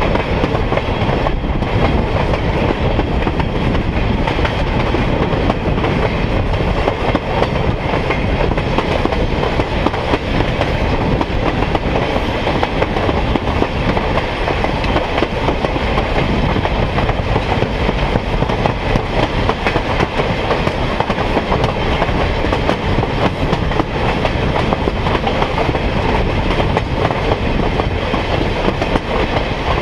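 A railroad car rolling along the track: the steady noise of steel wheels on rail, with the clickety-clack of the rail joints.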